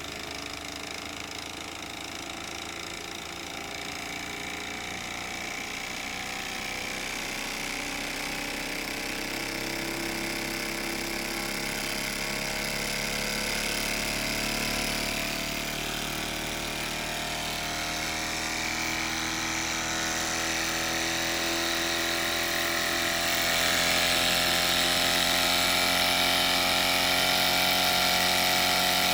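Mamod SP6 miniature steam engine with a double-acting cylinder running fast on full flame, a steady high-revving whirr. It grows gradually louder and a little higher in pitch as it picks up speed, stepping up in level about three-quarters of the way through.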